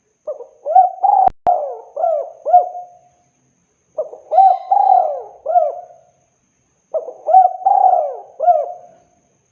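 Spotted dove (tekukur) cooing: three phrases of several coos each, with a pause of about a second between phrases. Two sharp clicks fall inside the first phrase.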